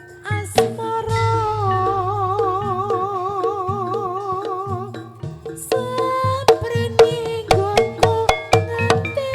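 Live Javanese barongan ensemble music: a long held melody note that wavers in pitch, over steady drumming and sharp struck percussion.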